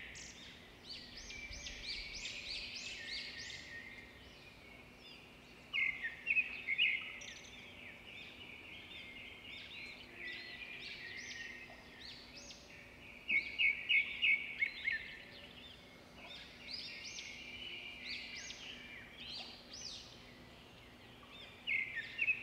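Small birds chirping and twittering in quick high trills, with louder flurries about six seconds in, around thirteen to fifteen seconds, and again near the end.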